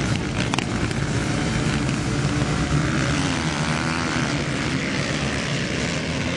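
Motocross motorcycle engines running on the track, a continuous engine drone whose pitch wavers up and down as the riders work the throttle.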